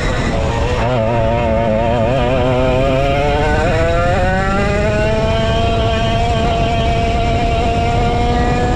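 Vintage go-kart's 135cc Sudam engine pulling hard. Its pitch climbs steadily from about a second in to about five seconds, then holds at high revs.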